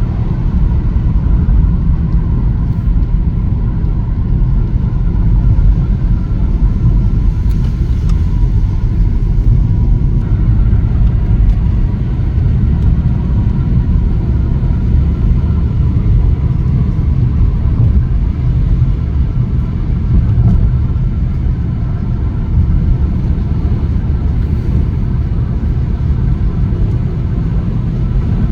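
A loud, steady low rumble that continues without a break.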